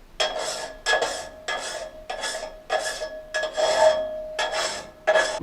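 Steel frame saw blade being hand-filed to resharpen its teeth: about eight steady rasping file strokes, roughly one every two-thirds of a second. The blade rings with a steady metallic tone under the strokes.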